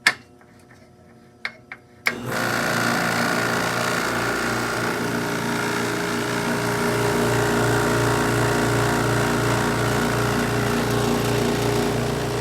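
A click, then about two seconds in a Copeland Copelaweld U two-cylinder compressor kicks on and runs with a steady loud hum and a pulsing buzz. Its mounting springs are gone, so it sits directly on the base.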